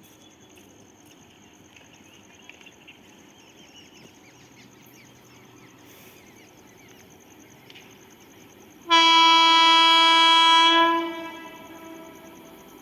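Quiet trackside ambience with a steady high insect trill, then about nine seconds in a train horn sounds one loud, steady-pitched blast of about two seconds that trails off.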